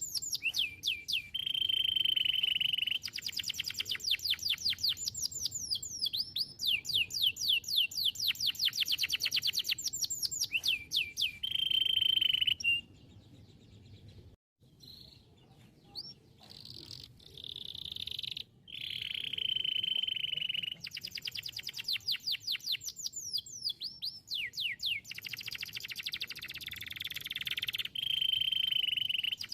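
Domestic canary singing: long runs of very rapid repeated notes alternating with held, steady whistled notes, with a few seconds of quieter, sparser song near the middle.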